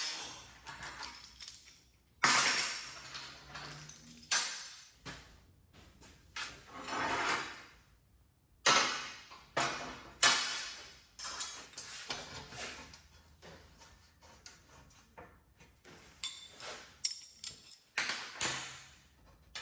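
Steel parts and hand tools knocking and scraping together in a metal workshop: a string of sharp clanks, each dying away quickly, mixed with a few longer scraping strokes.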